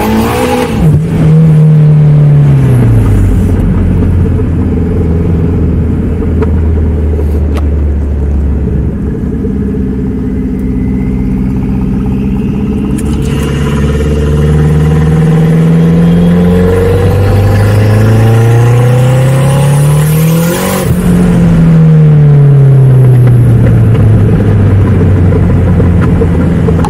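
Volvo 940 wagon's engine under way, the revs climbing as it accelerates and dropping back at each gear change, several times over. A high whine climbs for several seconds to a sudden burst of noise about twenty seconds in.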